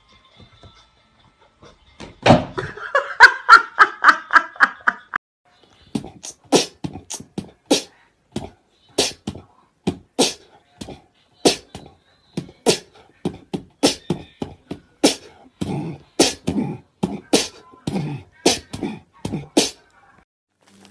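A rapid, rattling run of pitched notes lasting about three seconds, then a steady rhythmic beat of sharp clicks and pops, about two a second, like beatboxing.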